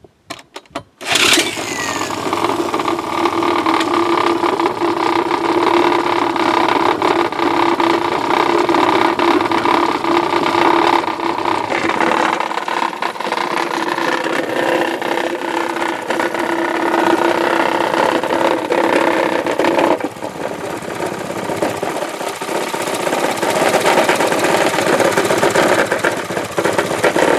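A small Briggs & Stratton engine catches about a second in and runs steadily and smoothly. Its sound drops a little and changes about twenty seconds in.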